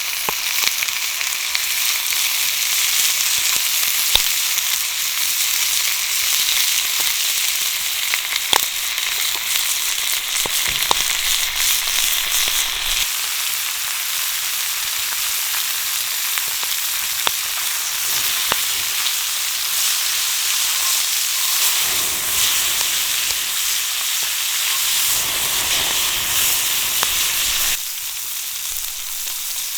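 Pork belly sizzling and frying in an iron frying pan over a campfire: a steady hiss with scattered sharp pops of spattering fat.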